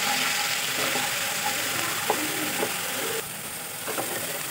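Ground onion and ginger-garlic paste frying in hot oil in a kadai, with a steady sizzle, while a wooden spatula stirs and scrapes against the pan in a few short ticks. The sizzle drops about three seconds in.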